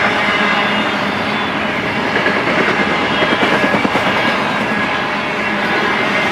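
Double-stack intermodal well cars rolling past: a steady, loud rumble of steel wheels on rail with a dense run of rapid clicks.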